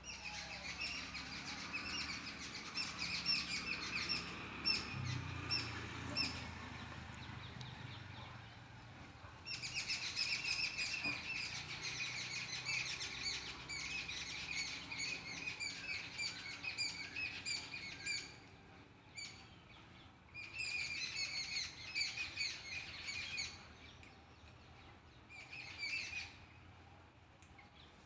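Birds chirping rapidly in a dense, continuous chatter. The chatter breaks off and starts again several times.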